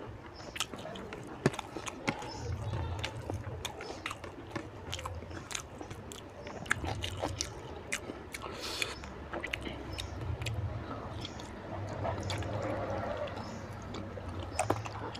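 Close-miked eating of oily mutton fat curry and rice by hand: wet chewing and squishing with many sharp lip-smacking clicks at irregular intervals. A low hum comes and goes underneath.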